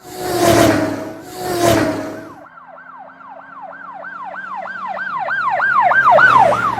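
Siren-like wail made of quick falling sweeps repeating about two and a half times a second, growing louder toward the end, after two loud noisy bursts with a steady horn-like tone in the first two seconds.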